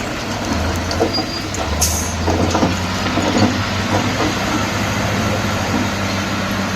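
Komatsu D68E bulldozer's diesel engine running steadily under load, with irregular clanks and knocks from its steel tracks and the rock it is pushing.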